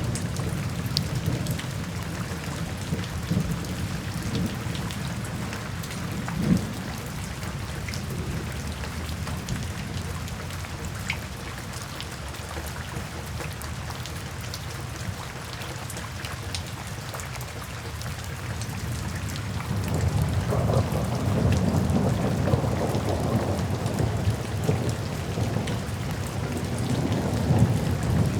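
Steady rain falling, with scattered individual drop ticks over a low rumble. About two-thirds of the way through, a long roll of thunder swells up and keeps rumbling.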